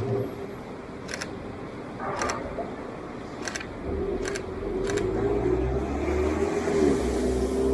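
A camera shutter firing five single shots in the first five seconds, while a motor vehicle's engine hums close by from about four seconds in and grows louder.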